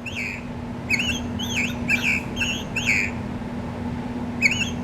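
Motion-activated singing bird Christmas ornament playing recorded birdsong. A quick run of rising-and-falling chirps starts about a second in, pauses, then resumes near the end, over a steady low hum.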